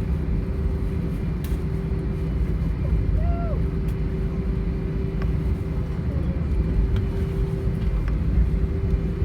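Cabin noise of an Airbus A320 taxiing: the engines at low power give a steady low rumble with a constant hum over it, and a few faint clicks.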